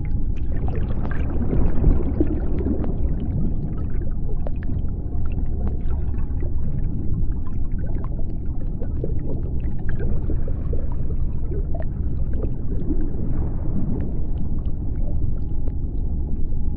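Deep-sea underwater ambience: a steady low rumble with faint scattered clicks and a faint hum.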